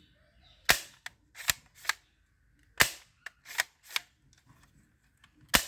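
Toy rifle giving a series of sharp, short snaps and clicks, with three louder ones spaced about two and a half seconds apart.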